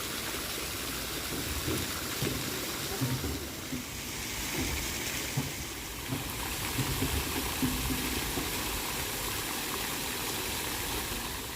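Steady rush of flowing water, like a weir or mill race, with faint voices murmuring underneath.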